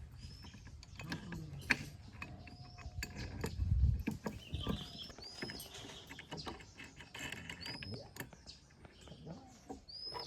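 Metal machine parts clicking and knocking irregularly as they are worked by hand, with one heavier low thud about four seconds in. Small birds chirp briefly several times in the background.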